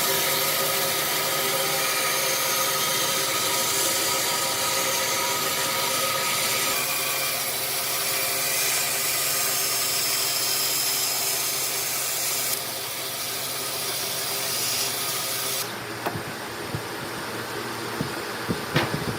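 An electric power tool running steadily on wood, a machine whine over a wide hiss. Near the end it gives way to a few sharp knocks.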